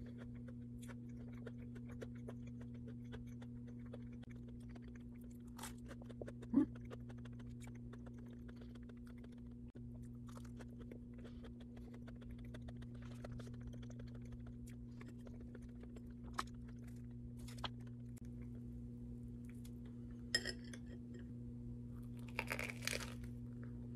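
Close-miked chewing of a crunchy streusel-topped bun: soft crackling crunches run throughout, with a louder bite and crunching near the end. A steady low hum sits underneath.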